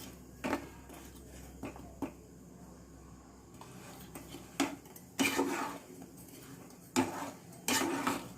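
Metal utensil clinking and scraping against a metal kadhai while jaggery melts in hot water: a few separate clinks, then longer, louder scrapes in the second half.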